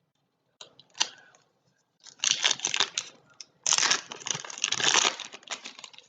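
Foil trading-card pack wrapper being torn open and crinkled in the hands, in two long stretches of crackling after a couple of short clicks.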